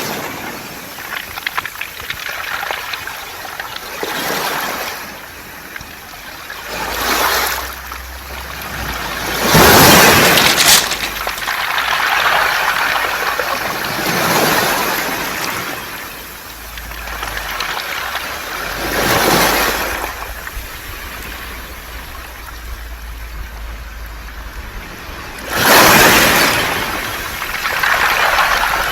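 Waves breaking on a beach of rounded pebbles (mongdol), six surges each a few seconds apart, with a hiss and trickle of water running back through the stones between them.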